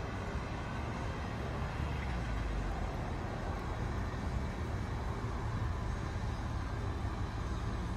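Porsche 911 flat-six engine running at low speed with a steady low note as the car rolls slowly toward the listener.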